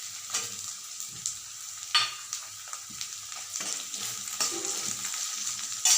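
Small onions (shallots) sizzling in hot oil in a kadai with crushed ginger, garlic and green chilli. A spoon stirs and scrapes them, giving sharp clicks now and then, the loudest about two seconds in and near the end.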